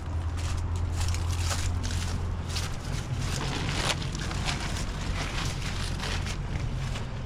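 A vehicle engine running steadily under load, a low drone, with a rapid irregular crackling and clicking over it.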